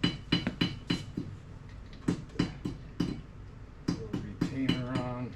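Light metallic taps and clinks, several a second in short runs with pauses between, each with a brief ringing tone: steel drum-brake parts and hand tools knocking together as the brake hardware is fitted.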